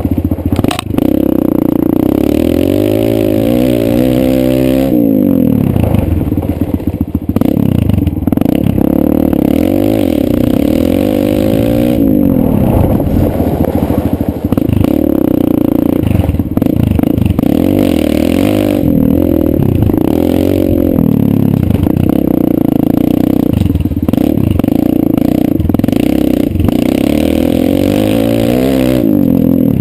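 Kawasaki KLX140 dirt bike's single-cylinder four-stroke engine being ridden, its pitch climbing and dropping again and again as the throttle is opened and closed.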